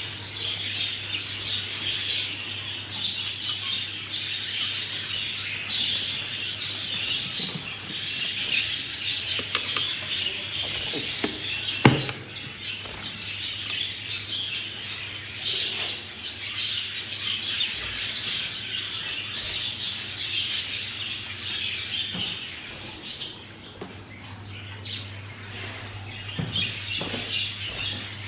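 A group of budgerigars chattering and chirping without a break, over a steady low hum, with one sharp knock a little under halfway through.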